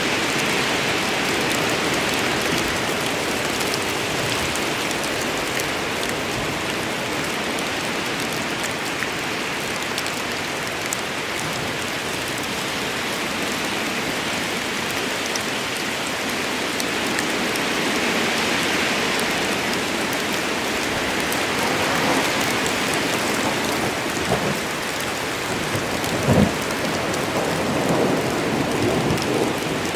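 Steady rain falling in a storm. A few heavier, sudden low thuds come in the last several seconds.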